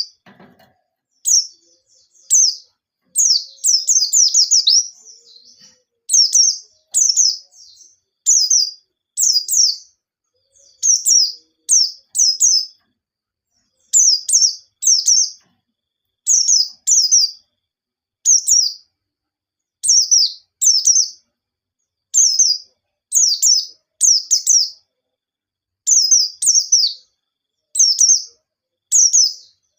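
White-eye (pleci) singing: short, high-pitched, rapid phrases of quick falling notes, repeated every second or two with brief pauses between.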